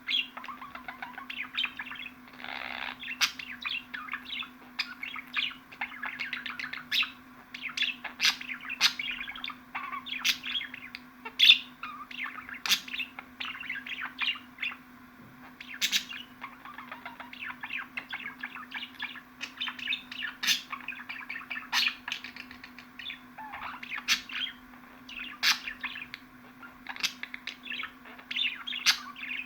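Budgerigar chatter: continuous warbling and twittering, broken by frequent sharp, high chirps. A steady low hum runs underneath.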